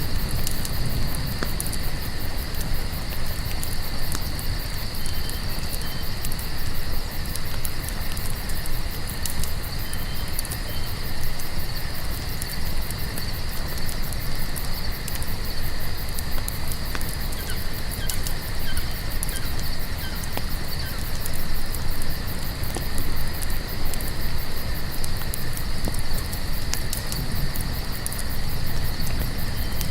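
Crickets trilling steadily over a crackling campfire, with a low rumble from the fire and scattered sharp crackles.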